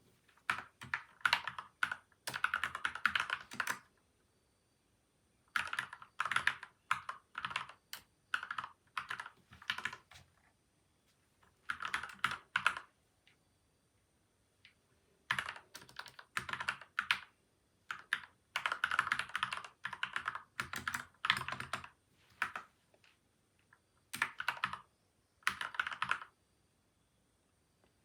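Typing on a PCL87 mechanical keyboard with lubed linear switches, tape and foam mods. The keystrokes come in quick runs of a few seconds each, broken by short pauses about four times.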